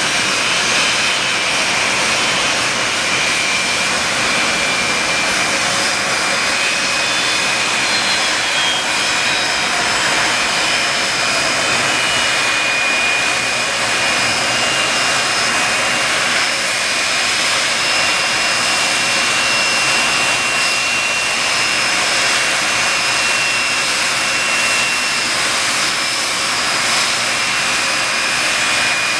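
Rolls-Royce RB211 turbofan engines of a Boeing 747-200F freighter running steadily: an even rushing jet noise with a high whine held on two steady pitches.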